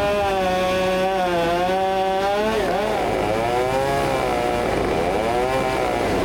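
Large two-stroke chainsaw running at high revs, its pitch dipping and recovering several times.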